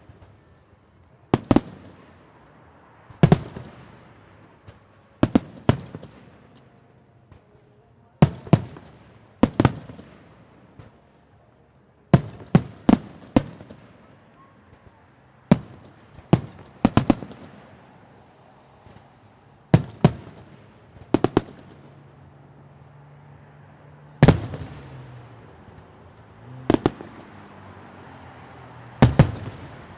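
Fireworks display: aerial shells bursting with sharp bangs, each trailing off in echo. They come every second or two, some in quick doubles and triples.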